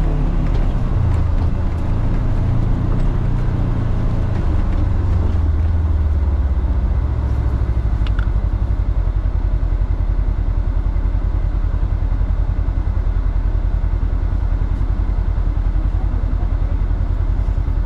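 Polaris Xpedition four-seat side-by-side under way, its engine running with a steady, loud low drone.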